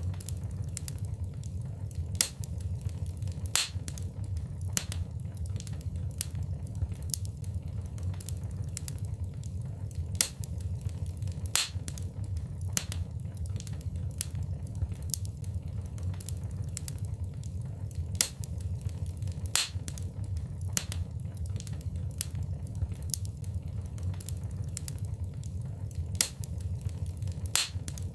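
Wood fire in a fireplace crackling: irregular sharp pops and snaps, about one or two a second and some much louder than others, over a steady low rumble.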